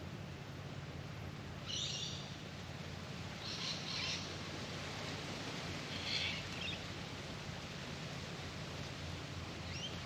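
A bird gives three short, harsh calls about two seconds apart, over a steady low background hum.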